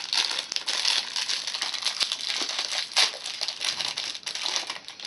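Plastic snack packet crinkling steadily as it is handled, with a sharper crackle about three seconds in.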